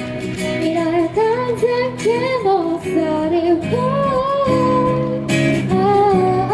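A woman singing a sustained, gliding melody live over acoustic guitar.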